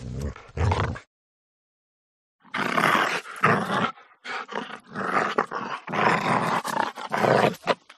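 A dog growling and snarling in quick, rough bursts while it lunges and snaps in play, with a brief silent break about a second in.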